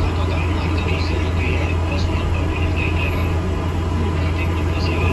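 Cabin noise aboard an Alexander Dennis Enviro400 MMC double-decker bus on the move: a steady low engine drone under road noise.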